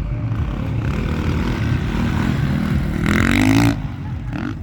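Motocross bike engine revving, with a loud rising-pitch burst about three seconds in lasting under a second, over a steady low engine rumble.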